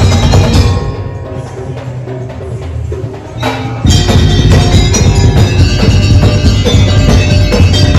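Daul Madura percussion band music: drums and percussion playing a dense beat. The band drops to a quieter break about a second in, then comes back in full just before the middle.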